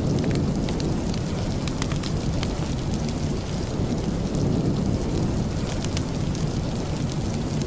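Steady rain, a constant deep rushing with scattered sharp ticks over it.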